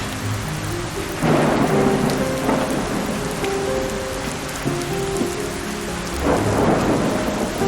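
Steady rain with two rolls of thunder, one swelling about a second in and another near the end.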